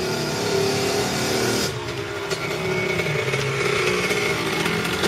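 Small dirt bike engine running and revving.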